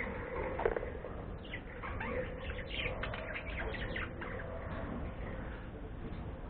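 Pet bird chirping: a quick run of short, falling chirps through the middle, after a sharp tap under a second in.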